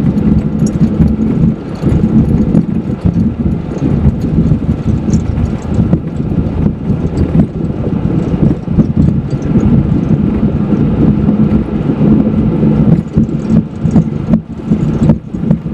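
Flight-deck noise of a Boeing 727-200 on its takeoff roll: its three Pratt & Whitney JT8D turbofans running at takeoff thrust under a loud, dense rumble, with frequent irregular knocks and rattles as the wheels run down the runway.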